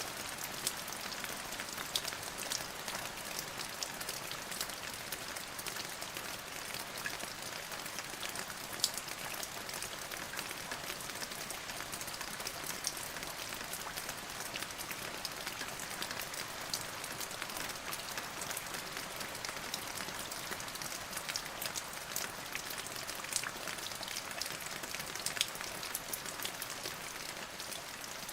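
Steady rain: an even hiss with many single drops ticking sharply on a hard surface.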